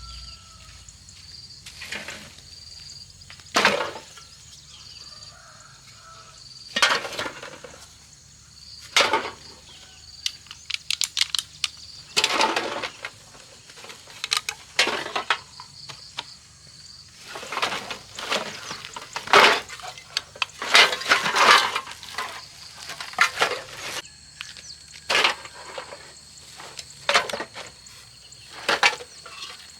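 Irregular knocks, cracks and clatters of scrap and debris being handled and broken, some in quick runs, the busiest stretch in the second half. Insects chirp faintly and steadily underneath.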